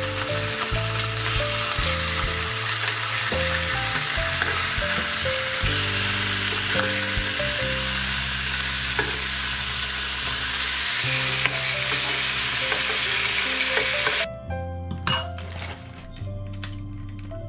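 Freshwater eel fillets sizzling as they fry in a frying pan, with background music playing underneath. The sizzle cuts off abruptly near the end, followed by a few clinks.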